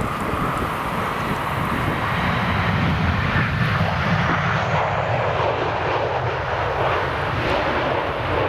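Jet airliner's engines passing close, a steady rushing noise that builds, then sweeps down in pitch in the second half as the aircraft goes by.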